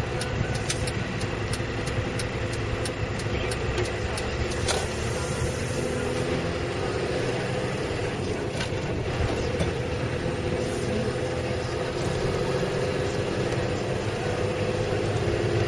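A M.A.N. truck's diesel engine running steadily under way, heard inside the cab with road noise. Quick, regular ticks sound over the first few seconds.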